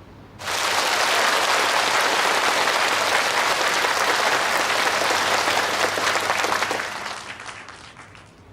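Audience applause that starts suddenly about half a second in, holds steady for several seconds, then fades away near the end.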